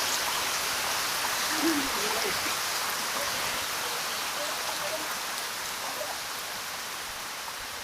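Steady rushing of a waterfall's falling water, easing slightly toward the end, with faint voices briefly about two seconds in.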